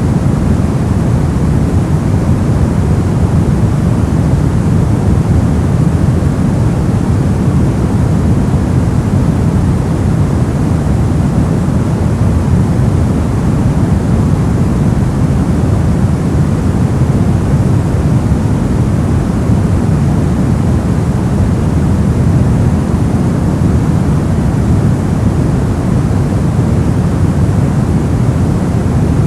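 Steady, unbroken white-noise sleep track, weighted toward the low end so that it sounds like a deep, even rush rather than a bright hiss. It does not vary at all.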